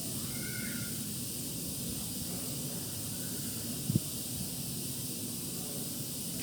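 Steady background hiss with a low rumble under it, a faint short two-note chirp about half a second in and a brief dull thump about four seconds in.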